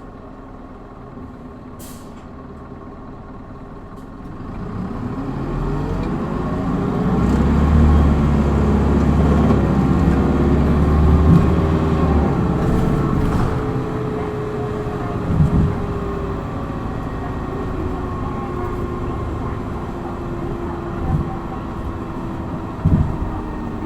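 Hino Blue Ribbon city bus diesel engine heard from inside the bus: a short air hiss about two seconds in, then the bus pulls away hard in power mode. The engine note rises in pitch and is loudest about eight to twelve seconds in, then eases to a steadier drone with a few knocks near the end.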